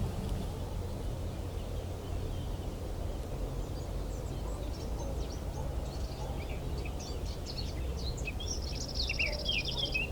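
Small birds chirping, with one fast high trill near the end, over a steady low outdoor rumble.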